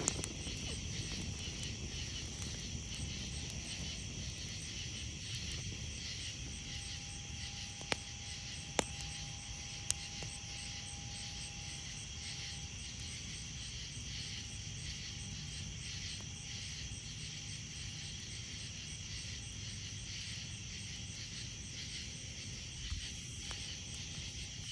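Crickets and other night insects trilling steadily, over a steady low rumble. A campfire gives a few sharp pops, about 8, 9 and 10 seconds in and again near the end.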